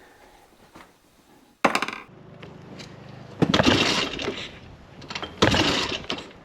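Triumph Trident three-cylinder engine running at a low, steady idle, which starts suddenly about a second and a half in. Two loud, noisy bursts of about a second each cover it, the first at about three and a half seconds and the second near the end.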